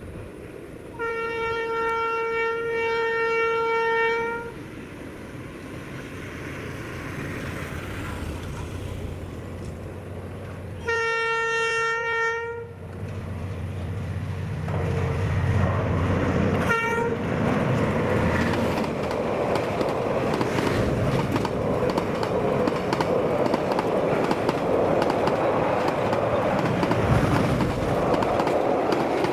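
A train horn sounds twice: a steady single-note blast of about three seconds, then a shorter one about ten seconds later. After that the train's rumble and the rapid clatter of its wheels over the rails build up and stay loud to the end.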